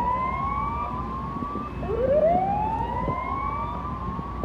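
Coast guard boat siren wailing, each rise sweeping up from a low to a high pitch and repeating about every three seconds.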